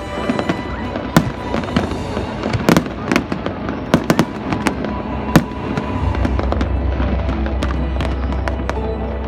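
Fireworks display with aerial shells going off in irregular sharp bangs over continuous crackling. The bangs thin out after about five and a half seconds, leaving a steady low rumble.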